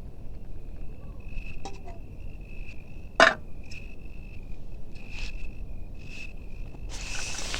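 Crickets chirping, a high chirp repeating about once a second. A single sharp knock about three seconds in stands out above them, and a short hiss-like rustle comes near the end.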